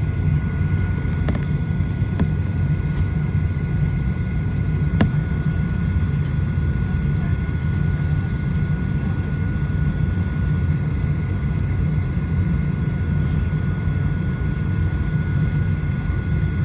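Steady cabin noise of a Boeing 737-900ER parked with its door closed: a low rumble of the air-conditioning airflow with a thin, constant high whine, and a few faint clicks in the first five seconds.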